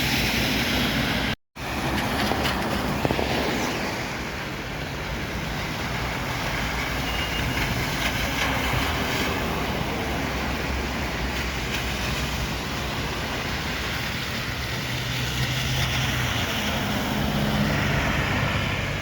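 Steady city transport noise: vehicles running past, with engine hum and wheel noise. The sound cuts out completely for an instant about a second and a half in.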